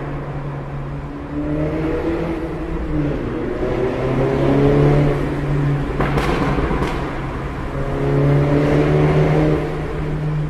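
Mini hatchback's engine accelerating hard through the gears, heard from inside the cabin in a road tunnel: the engine note climbs in pitch and drops at each upshift, several times. Two sharp cracks sound about six seconds in.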